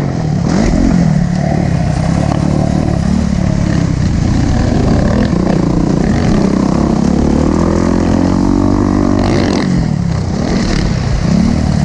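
Motocross dirt bike engine at race pace, its pitch rising and falling as the throttle is worked and gears change, dropping off briefly near the end before climbing again.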